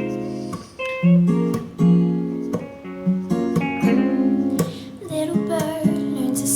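Acoustic guitar picked and strummed, playing the opening of an acoustic song.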